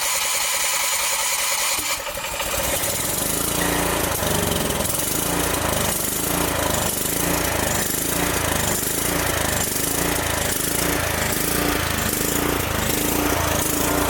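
Small engine cranking on its electric starter, then catching about two seconds in and running steadily with a regular rhythmic beat, on its first start.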